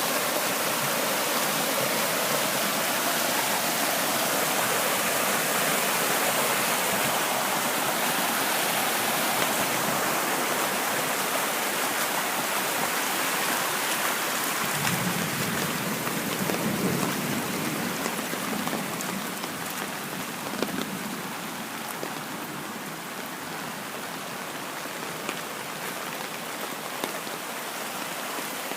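Heavy storm downpour drumming down, mixed with rushing storm-water runoff. A low rumble comes in about halfway through, and the downpour eases a little in the second half.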